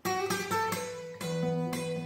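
Acoustic plucked string instrument picking a melody of quick single notes, each ringing on after it is struck, as the instrumental introduction to a Turkish folk song.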